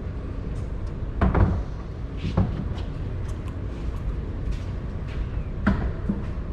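A few short, sharp knocks and clicks over a steady low rumble. The loudest come a little over a second in and again about two and a half seconds in, with another near the end.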